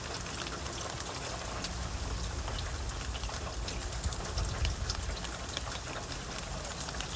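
Steady rainfall, with many fine drop ticks over an even hiss and a low rumble underneath that swells briefly about four seconds in.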